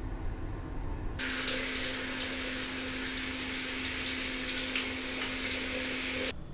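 Shower water running and splashing over a person's head, a dense hiss with a steady hum under it. It starts abruptly about a second in and cuts off just before the end.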